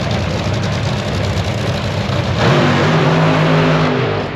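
Top fuel dragster engines, supercharged nitromethane-burning V8s, firing up: the sound jumps suddenly louder about two and a half seconds in and settles into a steady running note.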